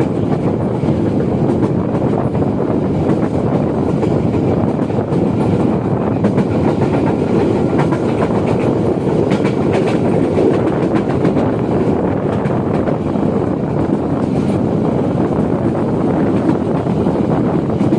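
Train running across a railway bridge: a loud, steady rumble of wheels on rails, with short clacks from the rail joints.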